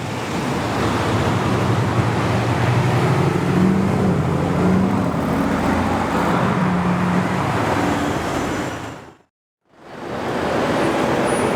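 Car engine running under a heavy rushing noise of wind and road. The engine note lifts slightly about four seconds in, then holds. The sound cuts out abruptly near the end and starts again a moment later.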